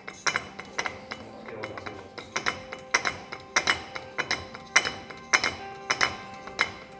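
Uneven metallic clinks and clanks, about two a second, each ringing briefly, over background music.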